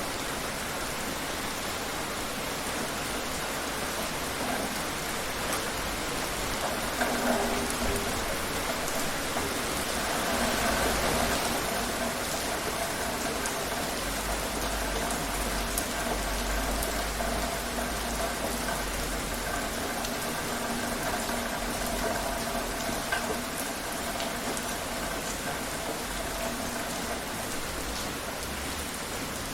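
Steady rain falling on surfaces, an even hiss of many drops. About seven seconds in, a faint steady hum joins it underneath.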